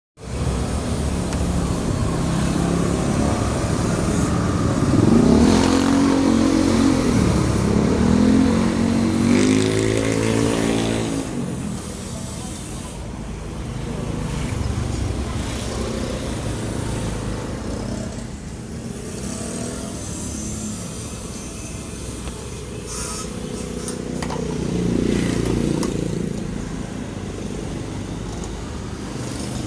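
A motor vehicle engine running steadily, its pitch rising and falling several times between about five and eleven seconds in and once more near the end.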